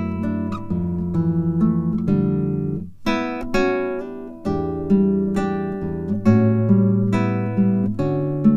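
Background music: acoustic guitar playing plucked and strummed notes, with a short break about three seconds in.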